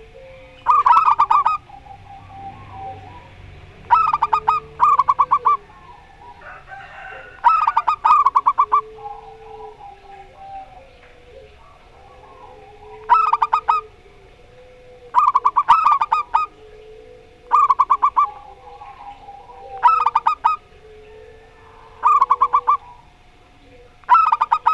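Zebra doves (perkutut) calling back and forth: loud bursts of rapid staccato cooing notes, each about a second long and coming about every two seconds, with softer low cooing between them.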